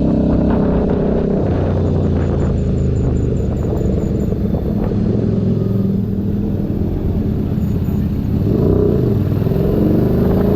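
Keeway SCR 250's 250cc V-twin engine running through a Racefit free-flow exhaust. Its note holds steady, then dips and climbs again about nine seconds in, rising near the end.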